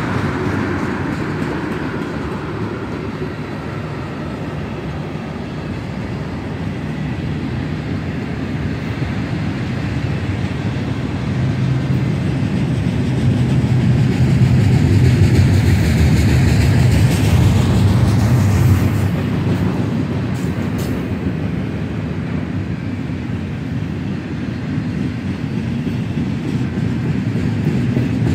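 Freight train passing close by, tank cars giving way to double-stack container cars: a steady rumble and clatter of steel wheels on the rails. It grows louder toward the middle, and a brief higher hiss swells and fades a little after that.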